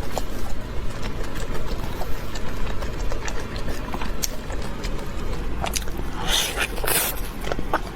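Close-miked chewing of crispy food: a steady run of small wet clicks and crackles, with two louder crunches about six and seven seconds in.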